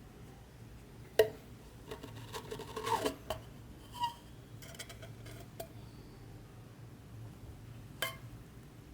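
Hard metal pieces being handled, clinking and knocking: a sharp knock about a second in, a busy run of clinks around two to three seconds, a short ringing clink near four seconds, and one more knock near the end.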